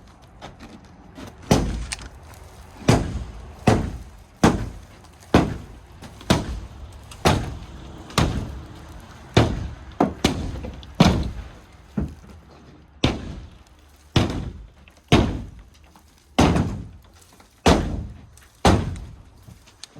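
Shed wall panels being struck hard to knock them out, a blow roughly every second, about twenty in all, each a sharp bang with a short ringing tail.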